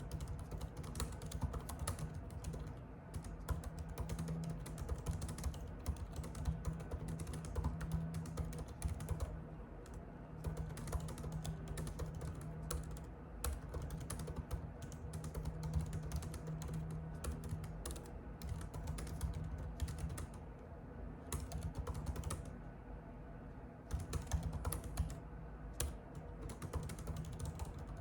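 Typing on a computer keyboard: a fast, uneven run of key clicks with a few brief pauses, over a faint steady hum.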